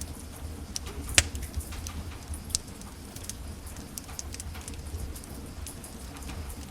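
Wood fire in a fireplace crackling: irregular small snaps and pops over a low steady rumble, with a sharp loud pop about a second in and another about two and a half seconds in.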